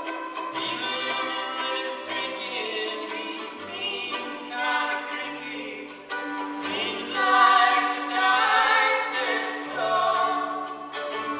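Live instrumental music: sustained bowed violin notes over a repeating low plucked bass figure.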